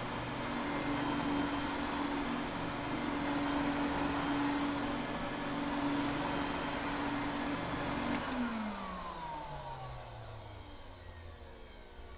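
Vacuum cleaner running with a steady hum and rushing air, then switched off about eight seconds in, its motor whine falling in pitch as it winds down.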